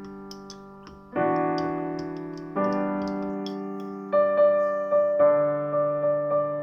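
Background piano music: slow chords, each struck and left to ring and fade, then a short run of repeated notes in the second half.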